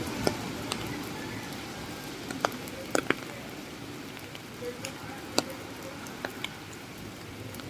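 Steady rain falling, an even hiss broken by scattered sharp taps of single raindrops striking close by.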